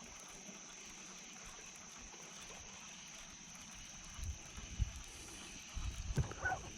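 Quiet outdoor ambience on a bass boat: a steady high-pitched hiss, with a few low thumps from about four seconds in and again near six seconds.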